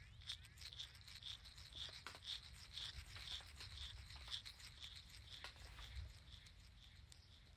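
Faint bird calling: a short high note repeated about twice a second, fading toward the end, with scattered light clicks and a low rumble underneath.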